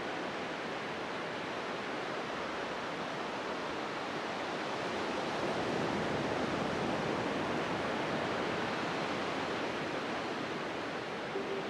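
Steady rushing water, an even hiss that swells slightly about halfway through.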